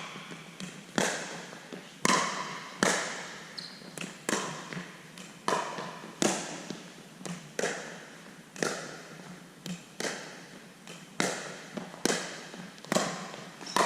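Pickleball rally: paddles strike a plastic ball in a steady back-and-forth, a sharp echoing pop about once a second, with lighter ticks between.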